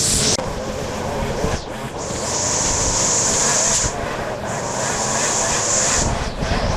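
Engine-driven machinery running steadily, with a high hiss that swells and fades twice.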